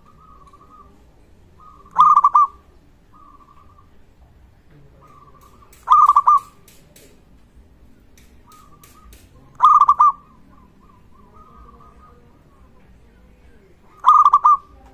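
Local zebra dove (perkutut) in full song, cooing. Four loud phrases of rapid coos come about four seconds apart, with softer drawn-out coos at the same pitch between them.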